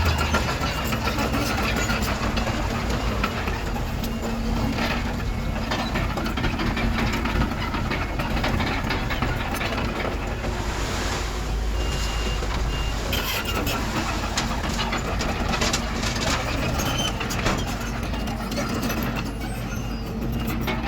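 Diesel engines of heavy earthmoving machinery, a bulldozer and dump trucks, running steadily under load, with scattered knocks and clanks. A brief high reversing beep sounds about halfway through.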